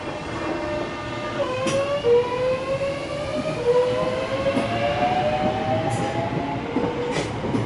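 Docklands Light Railway train pulling away, its traction motors whining in several tones that climb in pitch in steps as it gathers speed, over running rumble and a few sharp clicks.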